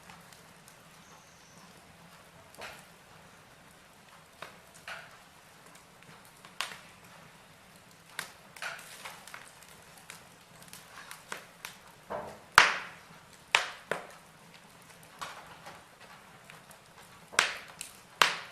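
Wood fire in a fireplace crackling: irregular sharp pops and snaps from the burning logs over a faint steady hiss, with the loudest pops about halfway through and near the end.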